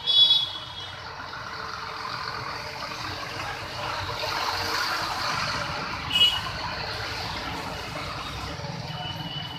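Street traffic: vehicles running steadily, swelling as one passes near the middle, with a short, loud, high-pitched toot at the start and another about six seconds in.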